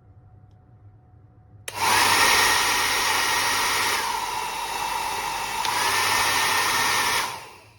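Compact 1300 W folding hair dryer switched on about two seconds in, blowing with a steady rushing noise and a high whine. Its level dips for a couple of seconds midway and comes back up, then it is switched off near the end and winds down.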